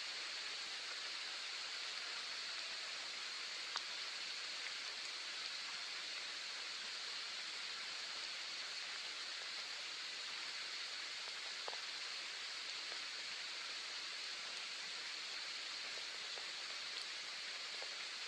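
Soft rain falling steadily as an even hiss, with a few single drops ticking out above it, the clearest about four seconds in and again near twelve seconds.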